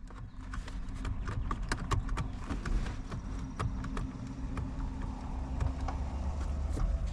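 Irregular plastic clicks and knocks from a steering-wheel airbag module being tugged and wiggled, over a low handling rumble; the module is still held by its bolts caught in plastic holes.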